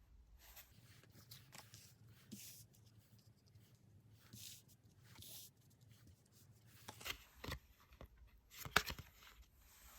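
Tarot cards being handled on a table: a string of soft swishes and slides as cards are moved and turned, with sharper taps and clicks about seven and nine seconds in.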